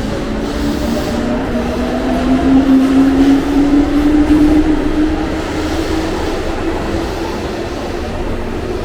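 Electric train running, its motors giving a whine that rises slowly in pitch as it picks up speed, over the rumble of the wheels on the rails.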